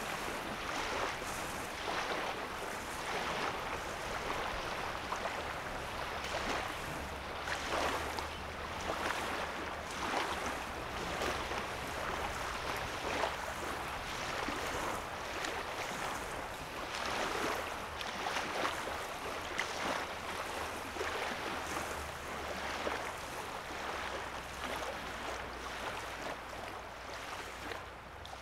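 Small wavelets lapping on a sandy lake shore in a soft wash that swells roughly once a second. The sound fades out near the end.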